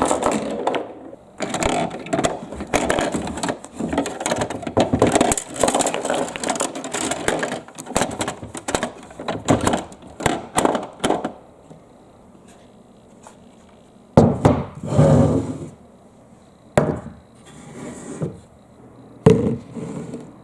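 Marbles rolling and clattering down a wooden marble run, a dense rattle of clicks for the first half. It thins out to a few separate knocks and one short rolling rumble later on.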